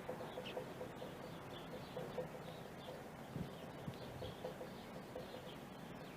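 Birds calling: short, high, falling chirps repeat throughout, over a lower pulsing call.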